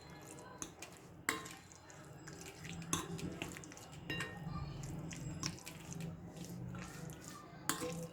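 Wet squelching and slapping of small chicken pieces being mixed in a thick yogurt and spice marinade, irregular, with a few sharper clicks.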